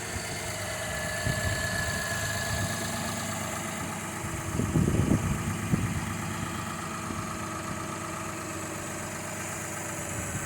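Lexus RX300's 3.0-litre V6 idling steadily after a run of revs, with a brief louder low rumble about five seconds in. At 340,000 miles it still sounds fairly smooth.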